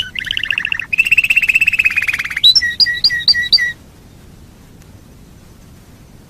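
Domestic canary singing: rapid trills, then a run of about five quick separate notes, stopping abruptly a little before four seconds in and leaving only a faint hiss.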